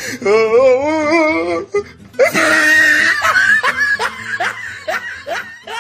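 Comic laughter sound effect over music: a wobbling, warbling laugh, then a brighter held note and a run of short falling laughs.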